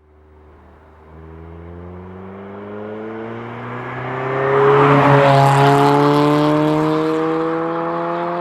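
Supercar accelerating past, its engine note climbing steadily in pitch and loudest about five seconds in as it goes by, then fading slightly.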